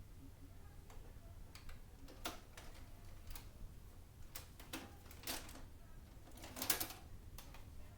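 Faint, irregular clicks and crackles over a low steady hum, with a denser cluster of clicks near the end.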